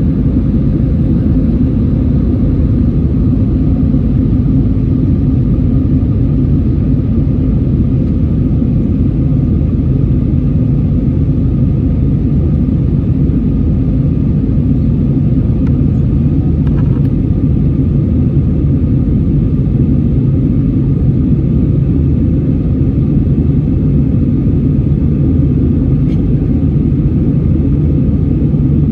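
Jet airliner's engines running steadily, heard as a loud, even cabin rumble with a faint steady whine above it.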